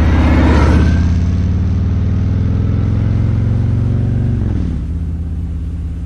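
Motorcycle engine running at a steady speed, with a brief rush of noise about half a second in. A little over four seconds in the revs fall away to a lower, steady note, as when the rider rolls off the throttle.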